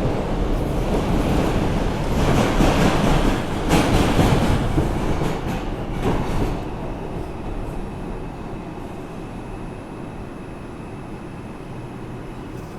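R142 subway car running loud on the rails as it comes into a station, with a few knocks, then dropping off about six and a half seconds in to a quieter steady hum with a thin whine as the train slows to a stop.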